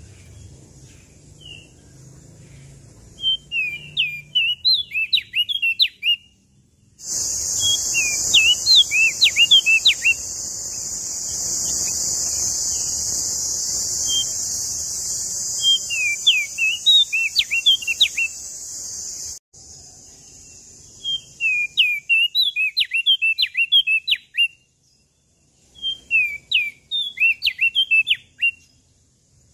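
A small songbird (prenjak daun Lombok) singing in repeated short bursts of quick, high whistled notes that sweep up and down, about six phrases with pauses between them. From about a quarter of the way in until about two-thirds through, a loud steady high hiss runs under the song and then cuts off suddenly.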